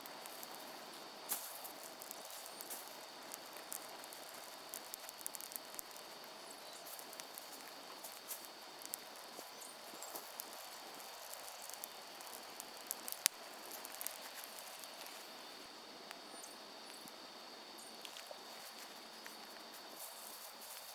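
Wood fire burning a tree stump: scattered sharp crackles and pops over a steady hiss, the loudest pop about two-thirds of the way through, with a steady high-pitched insect-like whine behind.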